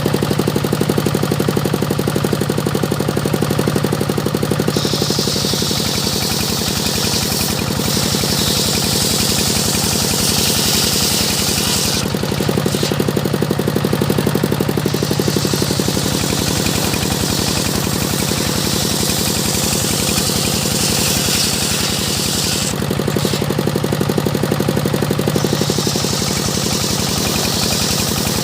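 Engine-driven circular saw sawing teak: the engine runs steadily with a fast, even knock throughout, and three times the blade bites into the wood with a high, hissing rasp lasting several seconds, a steady hum of the free-running saw coming back in between.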